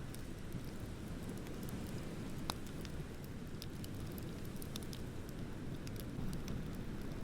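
Bonfire crackling: scattered sharp pops and ticks over a steady low rumble, with one louder pop about two and a half seconds in.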